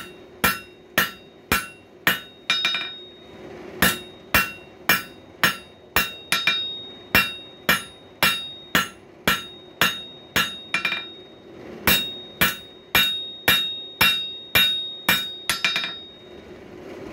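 Hand hammer striking hot coil-spring steel on an anvil to square up the bar, about two blows a second in runs with short pauses, each blow ringing brightly. A steady low hum runs underneath.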